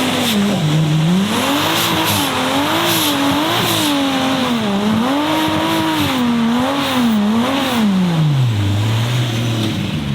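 Nissan Silvia S15's swapped Toyota 2JZ inline-six revving up and down over and over while drifting, with tyre squeal. Near the end the revs fall away and settle low.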